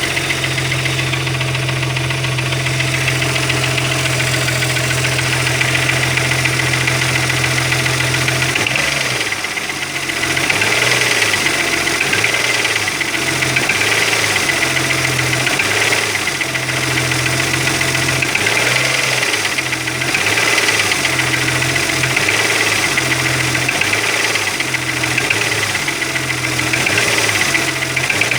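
Opel Omega B engine running with a knock that the owner puts down to the camshaft. Its low note holds steady for the first eight seconds or so, then wavers unevenly.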